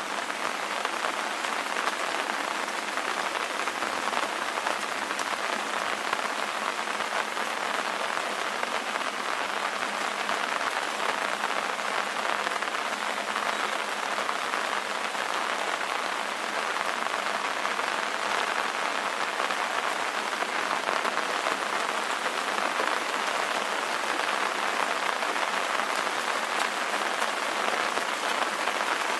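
Steady rain ambience: an even hiss of rainfall with faint scattered drop ticks, thin in the low end.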